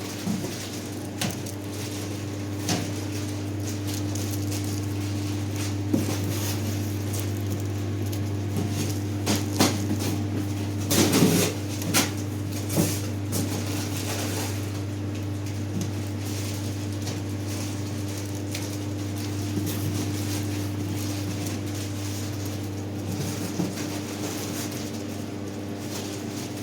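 A steady low hum, with scattered clicks and a cluster of knocks and clatter a little under halfway through.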